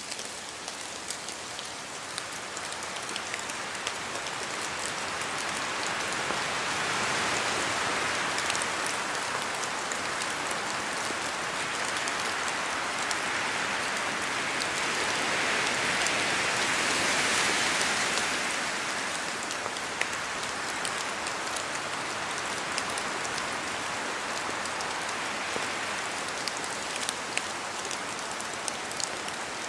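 Steady rain in a forest, with many separate drops ticking as they fall from the trees. Wind gusts swell the sound twice, about a quarter and about halfway through, then ease off.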